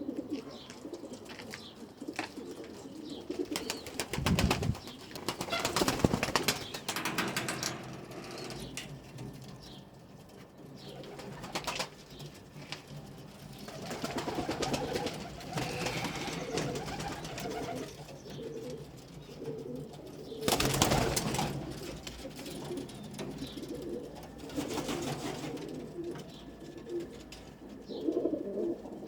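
Domestic pigeons cooing continuously, with a few louder rustling bursts a few seconds in, midway and about two-thirds through.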